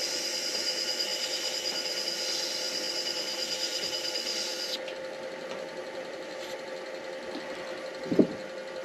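Midi lathe running steadily with a constant hum, during micro mesh sanding of a pen blank; a higher whine over it cuts off sharply about halfway through. A brief knock near the end.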